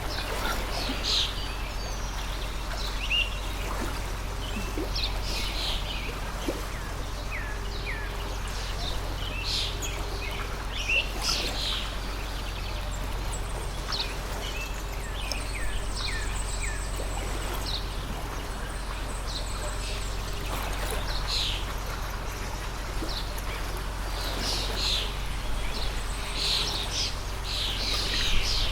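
Water stream flowing steadily, with many birds chirping and calling over it.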